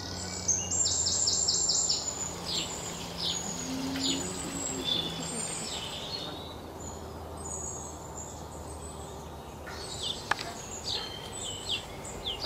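Small songbirds chirping: a quick run of high, falling notes in the first two seconds, scattered chirps after, and a busier burst of calls near the end, over a steady low background hum.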